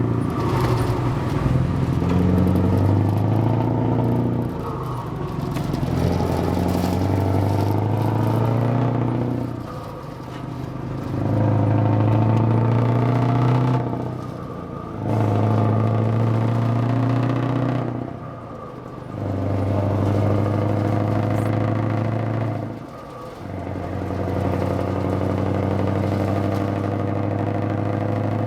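Scania 164L truck's V8 engine running hard in loud stretches of three to four seconds, each broken by a brief dip in the note.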